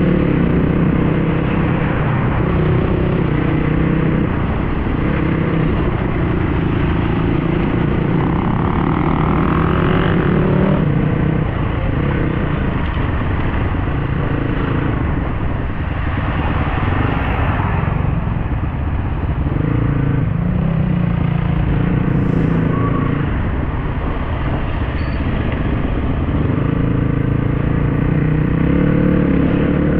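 Dirt bike engine running while riding, its note rising and dropping several times as it speeds up and eases off, over steady wind and road noise.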